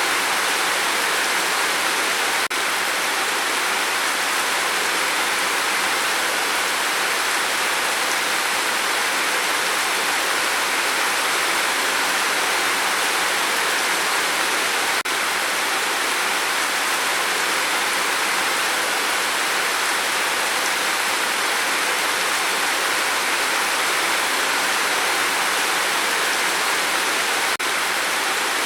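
Steady rain falling: an even, unbroken hiss with no single drops standing out. It cuts out for an instant three times, once near the start, once about halfway and once near the end.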